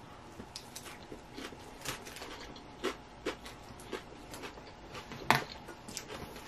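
Close-up chewing of a mouthful of dressed lettuce salad: irregular soft crunches and wet mouth clicks, with one sharper click about five seconds in.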